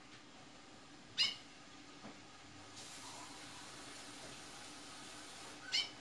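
Caged female towa towa bird giving two short, sharp calls about four and a half seconds apart.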